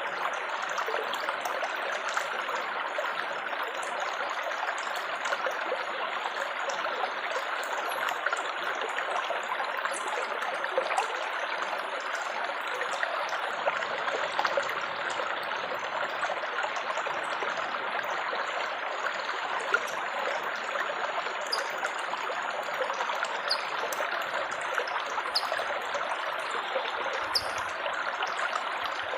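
Water trickling and babbling steadily, a continuous splashing flow with small droplet splashes scattered through it.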